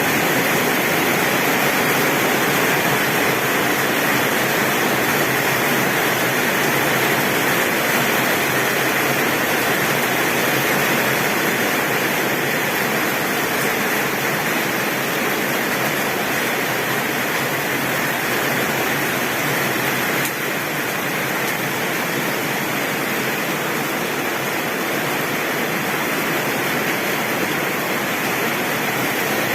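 Heavy rain pouring steadily onto a tin roof: a dense, even hiss with no breaks.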